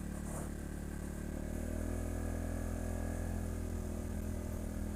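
ATV engine running under way on a trail, picking up a little about a second and a half in.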